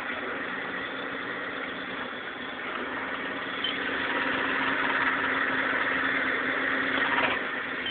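Mitsubishi 3000GT's V6 idling, with a louder noise coming in over the idle about three seconds in and dropping away near the end as the clutch pedal is pressed in. The noise comes from the clutch, can also be felt through the pedal, and its cause is unknown to the owner.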